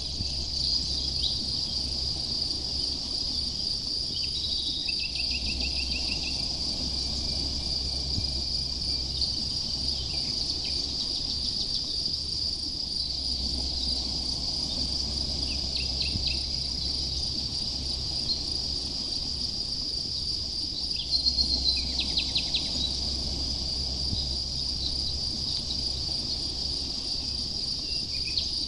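Crickets chirring in a steady, unbroken high-pitched drone, with a few short bird calls over it and a quick series of bird notes about three-quarters of the way through.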